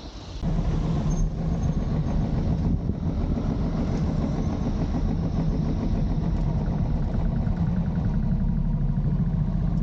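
Royal Enfield motorcycle engine running with a steady low rumble, starting about half a second in.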